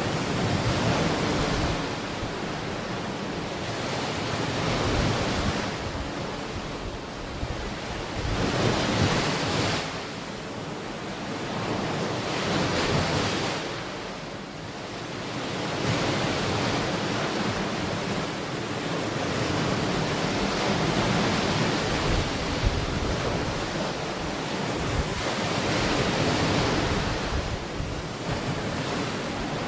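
Ocean waves breaking and washing up a beach, the surf swelling and easing every few seconds.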